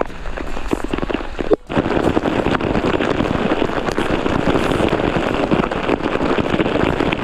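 Heavy rain and rushing water, thick with sharp clicks and knocks. The sound breaks off briefly about one and a half seconds in, then comes back louder and denser.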